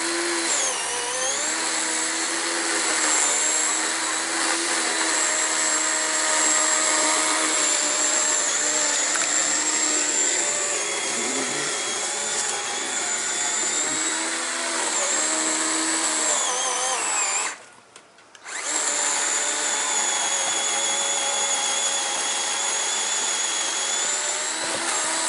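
Electric power saw cutting into a tree limb: a continuous motor whine whose pitch dips and recovers as the blade loads up in the wood. It stops for about a second two-thirds of the way through, then starts again.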